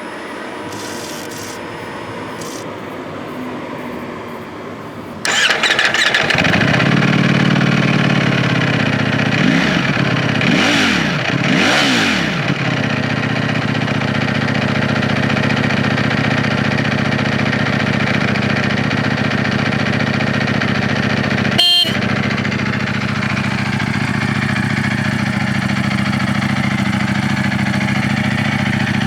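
Ducati Panigale V4S with its stock exhaust: the V4 engine starts about five seconds in and runs at a fast idle. Two quick throttle blips rise and fall around ten and twelve seconds, then it settles into a steady idle. A brief sharp click comes about two-thirds of the way through.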